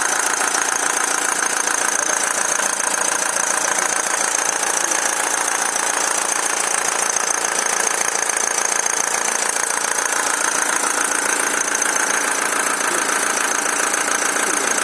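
Opel Vectra C's Y22DTR 2.2-litre four-cylinder diesel engine running at a steady speed with a rapid, even ticking knock that sets in once the engine is warm. The owner traced the knock to the crankshaft position sensor, though the fault code pointed to the camshaft.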